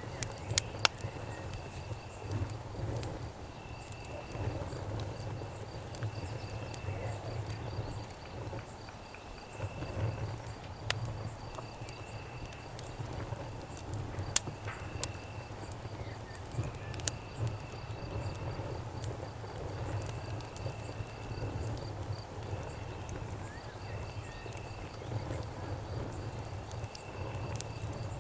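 Crackling campfire giving scattered sharp pops, one much louder about halfway through, over insects chirping in short, evenly repeated trills every second or two, with a steady low rumble underneath.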